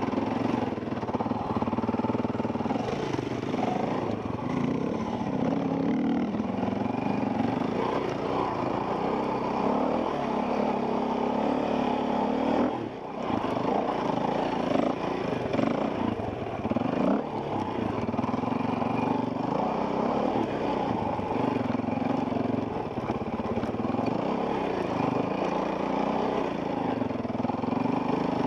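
Enduro dirt bike engine heard from the rider's helmet, its revs rising and falling constantly as the throttle works over the trail. About halfway through it drops off for a moment, then picks up again.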